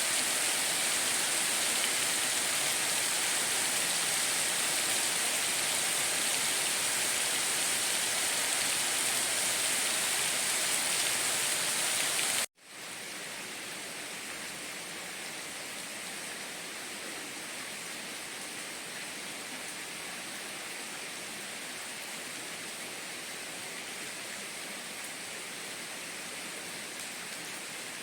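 Steady heavy rain. About twelve seconds in it cuts out for an instant and comes back quieter and duller.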